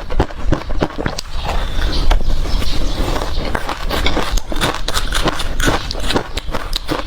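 Ice being crunched and chewed close to the microphone: rapid, irregular sharp cracks, several a second.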